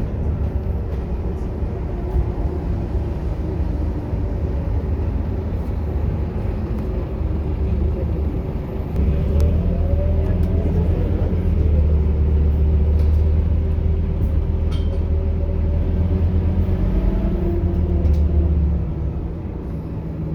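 Scania K230UB bus's diesel engine running with a low rumble. About nine seconds in it gets louder, with a rising whine as the bus speeds up, and it eases off near the end.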